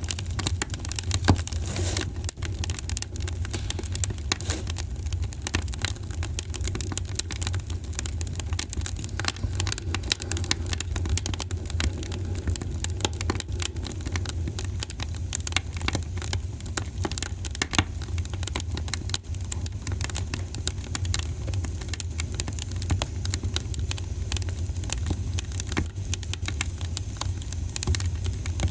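Wood fire crackling and popping in a fireplace, with irregular sharp pops over a steady low rumble and one louder pop about a second in.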